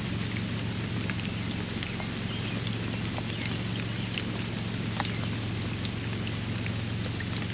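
Steady rain falling in a backyard pond area, with many separate drops ticking and plinking on nearby surfaces over a continuous hiss. A steady low hum runs underneath.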